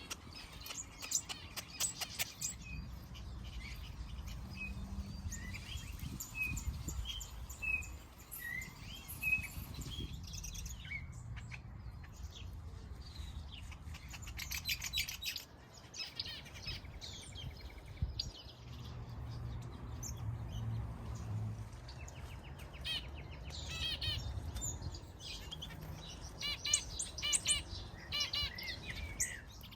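A mixed flock of aviary finches calling and chirping, many short high calls overlapping, with quick runs of repeated notes near the end.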